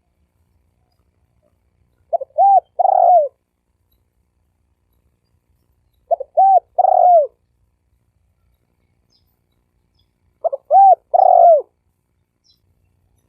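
Spotted dove cooing: three phrases about four seconds apart. Each phrase is two or three short notes followed by a longer falling coo.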